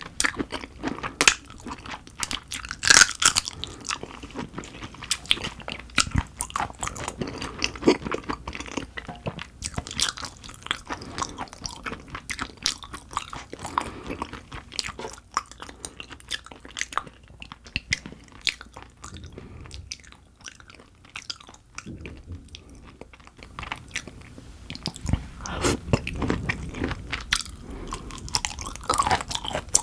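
Close-miked chewing of dohwa shrimp: a dense run of quick wet clicks from mouth and teeth. It goes quieter for a few seconds past the middle and picks up again near the end.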